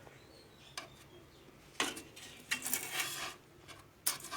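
Small hard objects clicking and rattling as they are moved about on a workbench: a few separate clicks and a brief clatter in the middle.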